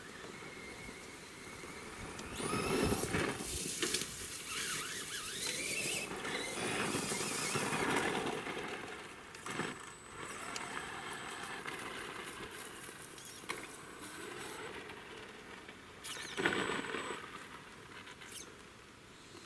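Traxxas Bigfoot RC monster truck driving in several bursts: its electric motor whines, rising and falling in pitch, over a rush of tyre noise. The loudest surges come about 3 s, 8 s and 16 s in.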